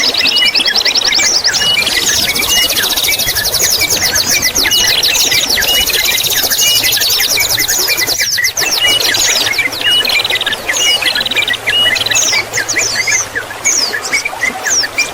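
Several songbirds singing over one another: a mix of bulbul, canary, white-eye, prinia and sunbird song. It is a tangle of sharp chirps and whistled notes, with a long, fast, buzzy trill through the first half. A steady trickle of water runs underneath.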